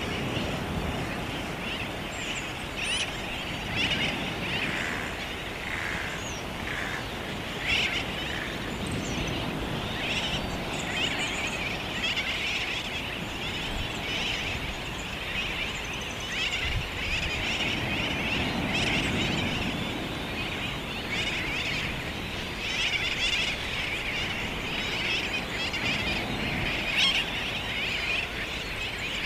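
Dense chorus of many birds calling at once, their overlapping chirps and cries running without a break, over a low rumble.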